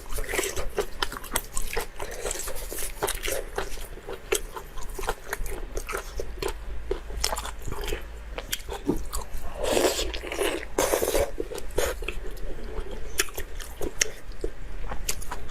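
Close-miked eating: a person biting and chewing food, a dense, irregular run of small crisp clicks and crunches, with a couple of louder, longer mouth noises about ten seconds in.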